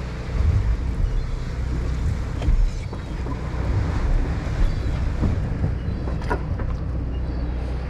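A boat's engine runs with a steady low drone while wind buffets the microphone in gusts. A few sharp clicks and knocks come through, the clearest about six seconds in.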